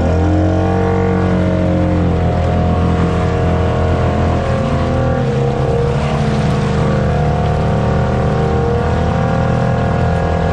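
ATV engine held at high revs. Its pitch sags and climbs back about a second in, and again briefly later.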